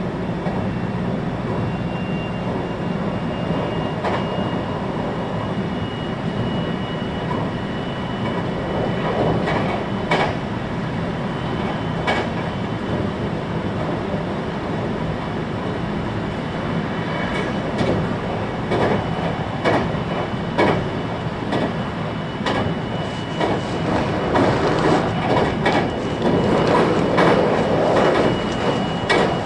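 521-series electric train running between stations, heard from inside the car: a steady rumble of wheels on rail, with a faint high whine that rises slightly over the first several seconds. Clicks from wheels passing over rail joints come more often and louder in the last few seconds.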